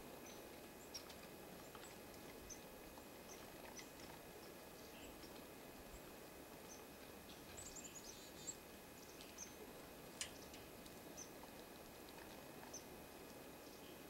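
Faint, scattered high chip notes of small songbirds, with a quick run of descending notes about eight seconds in and a couple of sharp ticks, over a steady low outdoor hiss.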